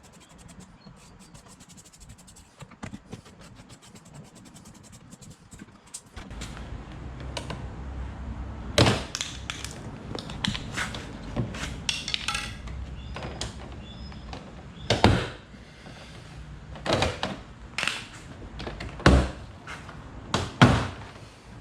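Plastic car door panel being worked loose from the door, its retaining clips popping free in several sharp knocks and thuds against the door. Before that comes a run of fast, light, even clicking.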